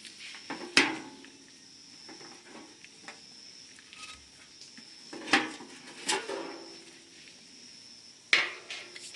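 Firewood being handled for a campfire: four sharp knocks and clatters as pieces are set down, over a steady high insect trill.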